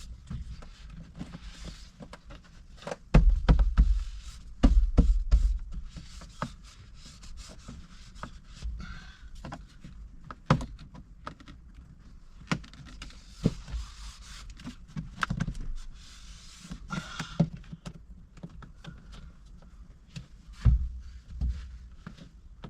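A rubber seal being knocked and pressed back into place by hand, along with trim pieces being handled: scattered clicks and taps, with heavy thumps about three to five seconds in and again near the end.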